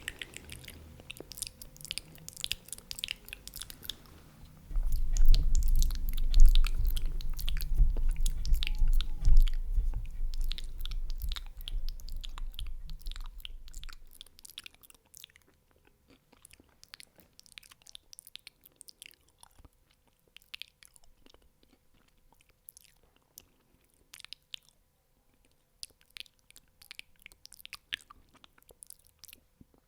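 Close-miked eating: wet chewing and biting with many sharp crunchy clicks, from fried chicken wings and fried rice. A heavy low rumble comes in about five seconds in and fades out by about fourteen seconds; after that the chewing clicks are sparser and quieter.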